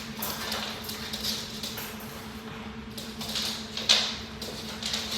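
Chickens pecking up scattered food: a string of quick, irregular light taps over a steady low electrical hum.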